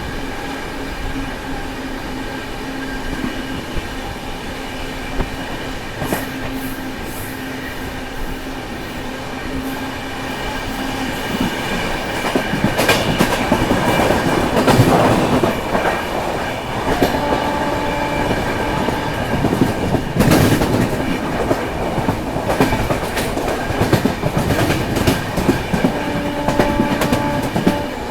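Passenger train running on the track: steady rumble with the clatter of wheels over the rails, growing louder about twelve seconds in.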